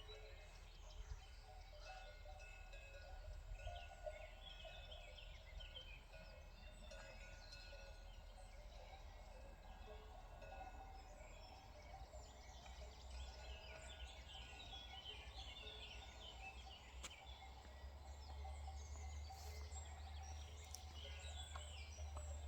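Faint outdoor ambience of small birds chirping and calling, over a low rumble that grows a little stronger near the end.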